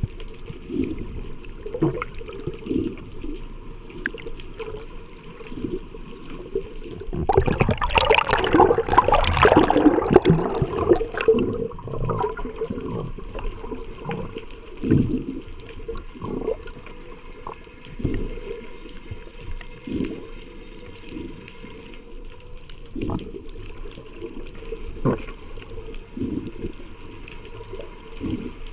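Water noise picked up by a swimmer's camera: irregular low thumps of moving water throughout. A loud burst of rushing and bubbling runs from about seven to eleven seconds in.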